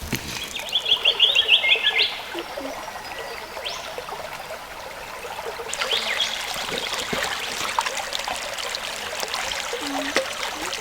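Water trickling and pouring. A short rapid high trill, the loudest sound, runs from about half a second to two seconds in, and scattered drip-like ticks follow later.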